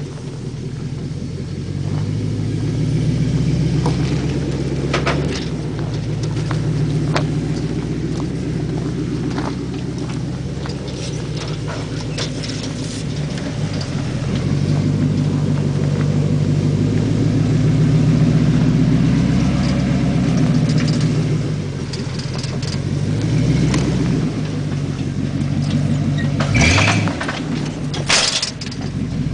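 Chevy K10 Blazer 4x4's engine running under load while driving off-road, its pitch rising and falling with the throttle, with scattered knocks and clunks. Two loud, short noisy bursts come near the end.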